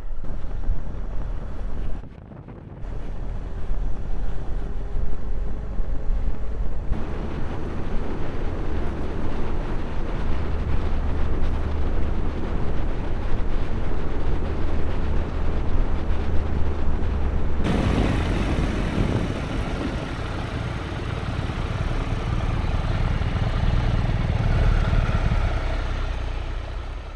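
Motorcycle engine running on the move with wind and road noise, the sound changing abruptly a few times as separate riding clips cut together.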